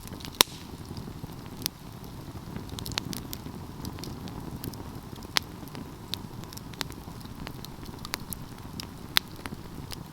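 Wood fire burning with a steady low rumble and irregular sharp crackles and pops from the burning logs, the loudest a pop about half a second in.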